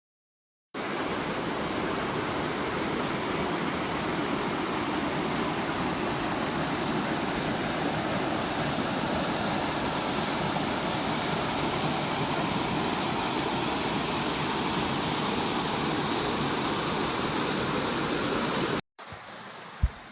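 Waterfall rushing, a steady, loud wash of falling water that starts abruptly just under a second in. Near the end it cuts off to a quieter water sound with one brief knock.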